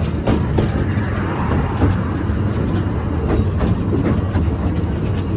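Narrow-gauge train running along the track: a steady rumble of wheels with irregular clicks as they pass over rail joints.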